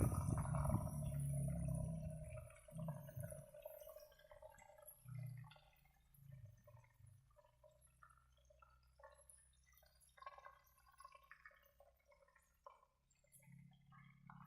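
Liquid gurgling and dripping, fuller for the first few seconds, then thinning to scattered small pops and drips.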